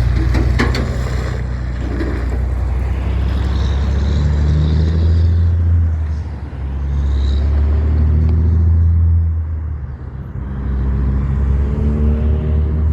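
Semi truck's Jake brake (engine compression brake) firing, a loud low engine rumble in two long stretches that ease off about six and ten seconds in.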